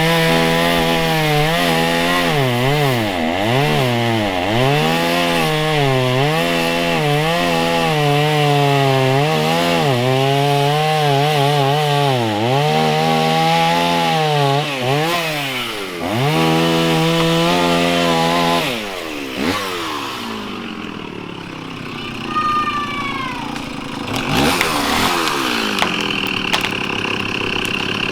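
Two-stroke chainsaw felling a black walnut tree, its engine pitch dipping and recovering as it bogs in the cut, then winding down. A few falling squeaks follow, then knocks and cracks near the end.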